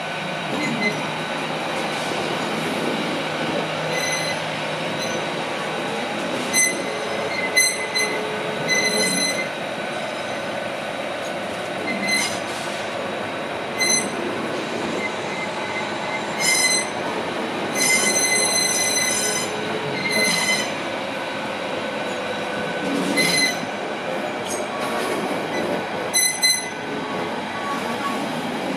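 Hitachi Class 810 multiple unit running past with a steady rumble, its wheels giving repeated high-pitched squeals that come and go throughout, some brief and some lasting a couple of seconds.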